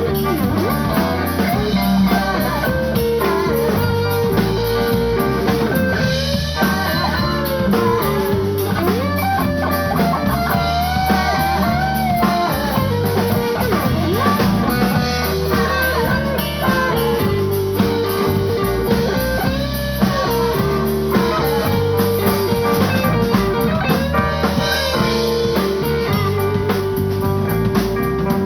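Live band playing a blues-style instrumental passage: electric guitar lead with bending notes over drum kit and a steady low end.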